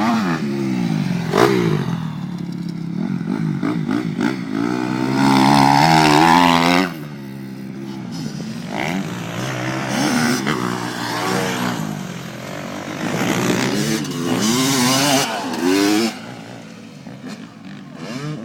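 Motocross dirt bike engine revving hard, its pitch climbing and dropping again and again with throttle and gear changes. It is loudest about a third of the way in and grows quieter near the end.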